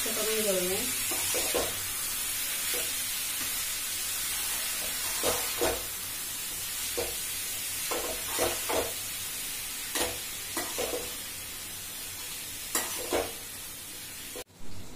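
Spinach and diced potato sizzling in hot oil in a pan, with a slotted metal spoon stirring and scraping against the pan in irregular strokes. The sizzle cuts off abruptly near the end.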